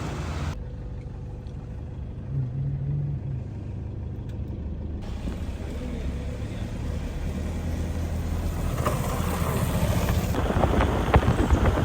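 Car on the move, a steady engine and road rumble with small rattles near the end.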